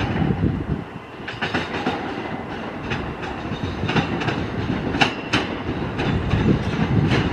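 New York City Subway L train moving along the track: a steady rumble with the wheels clicking over rail joints every second or so.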